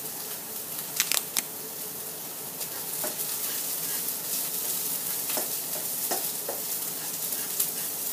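Sliced onions sizzling in hot coconut oil in a nonstick wok, stirred with a spatula that scrapes and knocks against the pan. Three quick knocks about a second in are the loudest.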